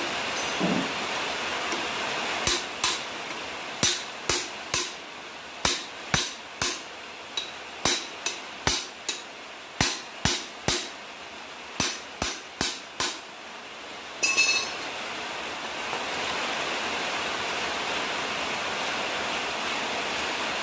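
Hammer tapping, about twenty light, sharp strikes in short irregular groups, followed by a brief clatter, over a steady background hiss.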